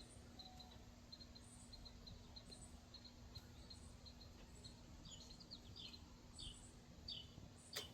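Faint outdoor ambience of birds and insects: short high chirps repeat steadily throughout. From about five seconds in, a call of short falling notes repeats roughly twice a second. A single sharp click comes near the end.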